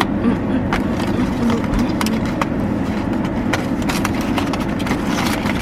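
Steady low rumble of a car cabin, with scattered sharp clicks and crinkles of packaging being handled as a blind box is opened.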